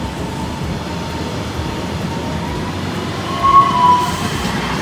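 Taiwan Railways EMU800 electric multiple unit running past alongside the platform: a steady rumble of wheels on rail, with a brief high-pitched tone about three and a half seconds in.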